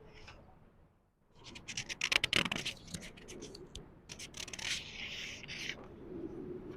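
A book page being turned slowly: paper rustling and crackling in two bursts, a louder one starting about a second and a half in and a softer one a couple of seconds later.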